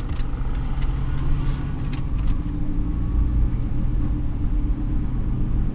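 Cadillac Escalade engine running steadily at low speed, a low, even drone with no revving.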